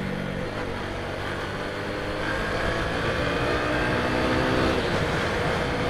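Bajaj V15's single-cylinder engine running under way. Its note builds steadily louder as the motorcycle accelerates.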